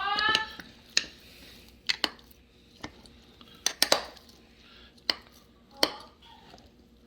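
A spoon stirring thick sourdough starter in its container, knocking against the side: a scattered string of sharp clinks, some in quick pairs, a second or so apart.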